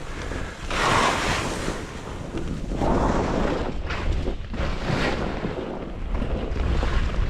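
Wind buffeting the microphone with a low rumble, over hissing surges of edges sliding and scraping on snow that swell and fade every couple of seconds.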